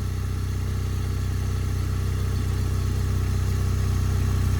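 2007 Polaris IQ 750 snowmobile engine idling steadily just after an extreme cold start, still warming up. It gets slightly louder over the few seconds.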